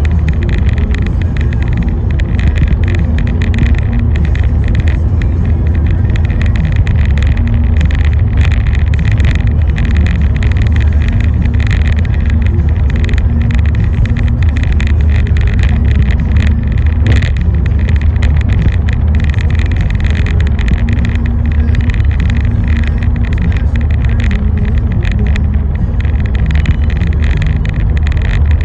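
A road vehicle driving steadily, with a continuous low engine and road rumble.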